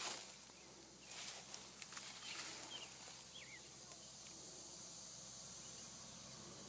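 Quiet outdoor ambience with a faint steady hiss and a few short, faint bird chirps about two and three and a half seconds in.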